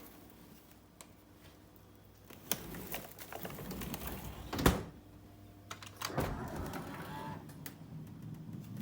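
A refrigerator's electric opening mechanism whirring, a whir the title likens to the YPVS power-valve servo on a Yamaha two-stroke. The motor runs about two and a half seconds in and ends in a sharp knock, then runs again from about six seconds in.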